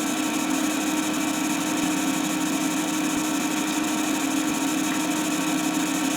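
Steady mechanical hum with hiss, unchanging throughout: the background noise of an old film soundtrack between lines of narration.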